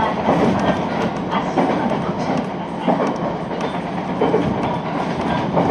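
Local electric train running at speed, heard from inside the carriage: a steady rumble of wheels on the rails with light clatter.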